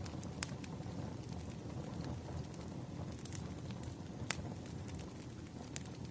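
Campfire crackling: a steady low rumble of burning wood with sharp, irregular pops and snaps, the loudest about half a second in, a little after four seconds and near the end.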